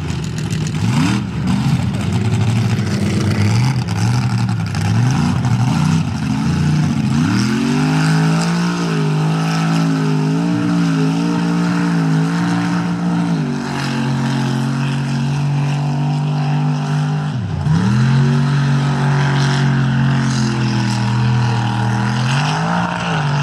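Mega mud truck's engine revving in quick bursts, then held at high revs with a wavering pitch. It drops back, dips sharply and climbs again, and falls off near the end.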